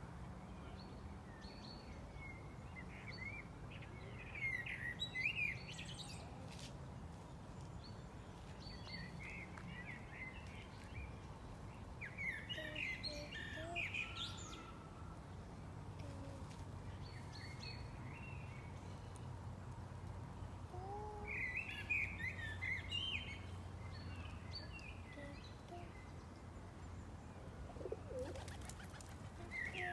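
Birds chirping in four short bouts of quick high chirps several seconds apart, over a steady low background rumble.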